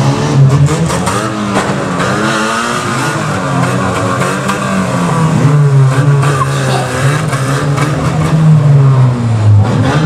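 Several banger-racing cars' engines revving and running together, their pitch rising and falling as they push around the track.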